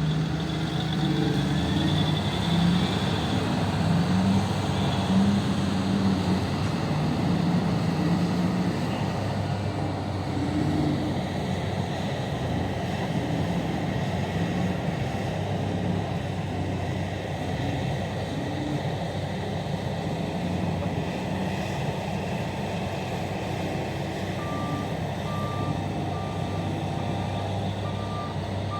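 Heavy diesel engines of mining machinery running under working load. The engine note rises and falls in the first half of the clip, then steadies. Near the end a vehicle's reversing alarm starts beeping steadily.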